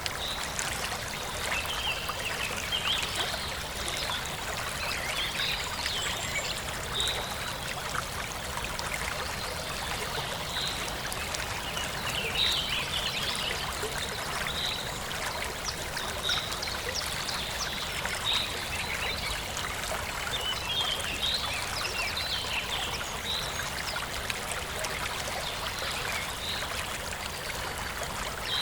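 Forest stream flowing and trickling steadily, with birds chirping in short, high calls every second or two.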